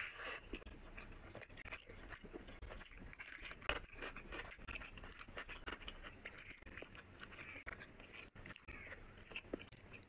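Close-miked chewing of a mouthful of rice and curry eaten by hand: wet mouth clicks and small crunches, with one sharper crunch about three and a half seconds in.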